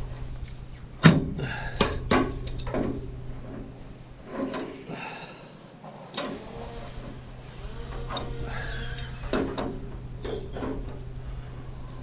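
Scattered sharp knocks and clanks of a spanner and metal fittings being worked on a steel radiator, the loudest about a second in, over a steady low hum.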